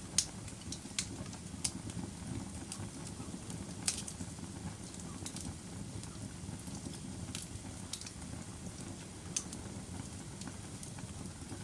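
Fire burning in a fireplace: a low steady rumble with scattered sharp crackles and pops, the loudest just after the start and about four seconds in.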